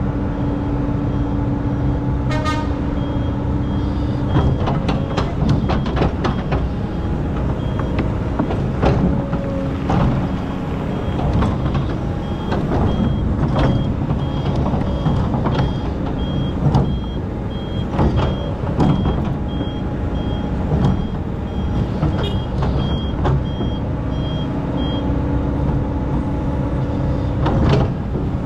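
Excavator's diesel engine running under load, with repeated clanks and knocks of the bucket working in sand. A high reversing alarm beeps on and off through most of the stretch.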